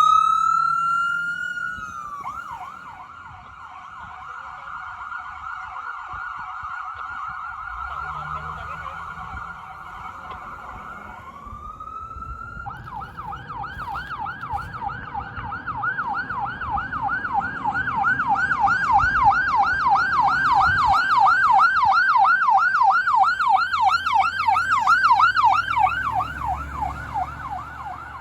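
Emergency vehicle siren: a rising wail at the start, then a fast up-and-down yelp that winds up again about halfway through and grows louder, then fades toward the end.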